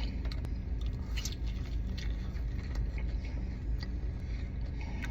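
Steady low hum of a car idling, heard from inside the cabin, with faint bites and chewing as a garlic parmesan chicken wing is eaten.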